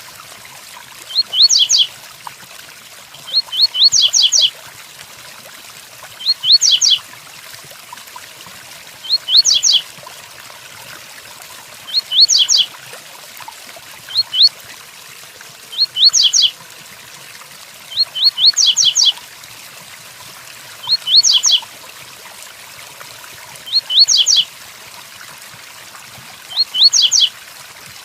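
Male double-collared seedeater (coleiro) singing the 'tui-tui' song: short phrases of quick rising whistled notes, repeated about every two and a half seconds, over a steady background of rain.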